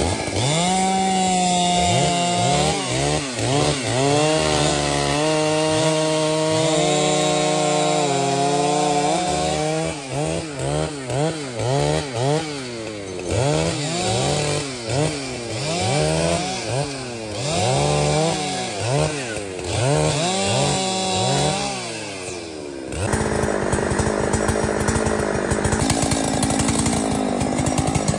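Petrol chainsaw engine at high revs, then revved up and down about once a second, its pitch dipping and rising each time. About two-thirds of the way through it turns to a rougher, steadier rasp.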